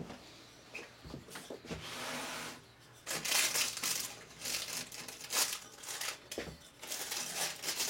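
Baking paper crinkling and rustling in repeated bursts as a freshly baked loaf is lifted out of a Dutch oven, after a couple of soft knocks in the first two seconds.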